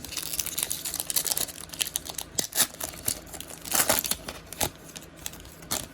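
Trading card packs being torn open by hand: plastic wrappers crinkling and ripping in a busy crackle, with louder tears around the middle and just before the end.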